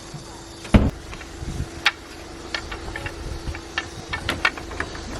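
Objects being handled: a heavy thump about a second in, then a run of short clicks and knocks, over a faint steady hum.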